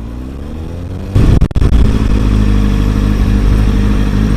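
Kawasaki ZX-6R 636 inline-four engine under way, its pitch rising for about a second, then a short break about a second and a half in, after which it runs steady and louder at constant revs.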